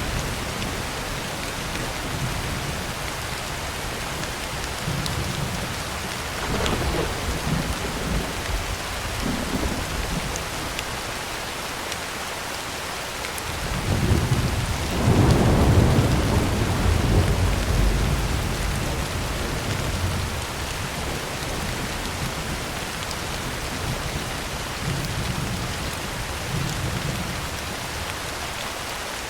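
Heavy rain falling steadily on a tin roof, with rolls of thunder: a low rumble about a third of the way in, and a louder, longer rumble about halfway through that swells and fades over a few seconds.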